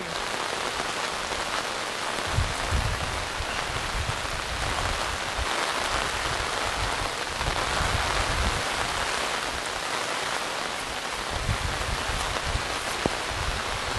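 Steady rain falling on the ground, a constant hiss, with gusts of wind buffeting the microphone now and then.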